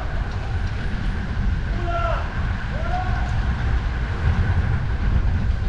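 Strong wind buffeting the microphone of a moving bicycle, a heavy, uneven rumble over steady traffic noise.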